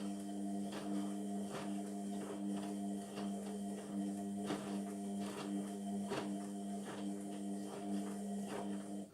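Indesit MTWC71252WUK washing machine running mid-cycle: a steady hum with soft ticks about every three-quarters of a second. It cuts off abruptly at the end, followed by a single click.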